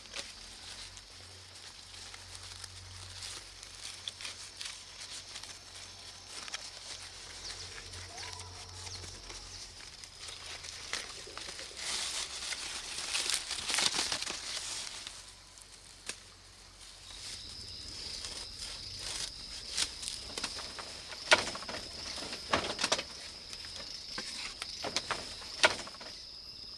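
Rustling and crackling, like plant material being handled, with sharp clicks and knocks, louder in the middle. A steady high-pitched insect drone sets in about two-thirds of the way through.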